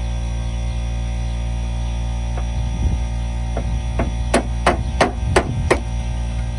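A hammer striking metal, working at a partly cut-through nut: a few light taps, then a quick run of about five harder ringing blows, roughly three a second. A steady low hum runs underneath.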